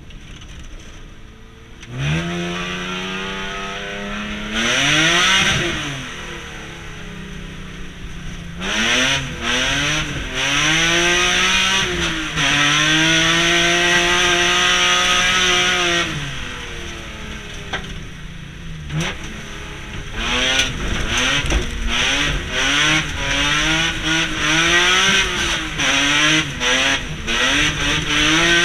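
BMW E36 Compact rallycross car with an M3 straight-six engine, heard from inside the cabin. The engine runs low and quiet, then jumps to hard revving about two seconds in. Its pitch climbs and drops again and again with the gear changes, holds high and steady for a few seconds midway, and near the end cuts in and out with quick lifts and stabs of the throttle.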